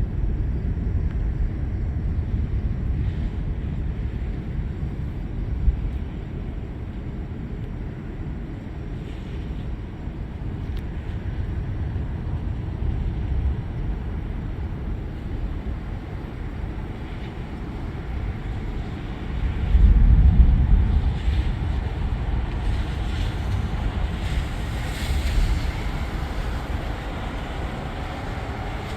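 Thunder rumbling through a steady low roar, with a louder roll of thunder about twenty seconds in.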